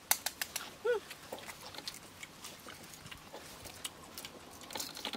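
Close-up mouth sounds of someone eating: a run of sharp, wet chewing and lip-smacking clicks. One short pitched squeak comes about a second in.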